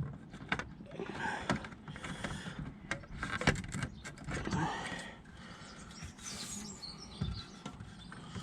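Plastic interior door trim being handled and pressed into place: scattered sharp clicks and taps.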